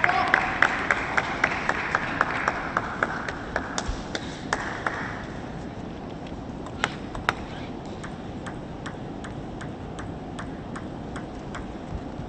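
Table tennis arena crowd applause, with evenly spaced sharp clicks about three to four a second, fading out about four to five seconds in. The clicks go on more faintly afterwards, with two sharper clicks about seven seconds in.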